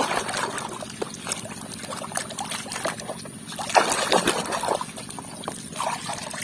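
Water splashing and sloshing in a basin as muddy plastic toy animals are scrubbed and rinsed by hand, with small irregular knocks and splashes, a little louder about four seconds in.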